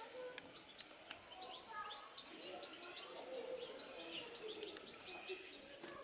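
Birds chirping: many short, high, quick calls overlapping, thickest from about two seconds in.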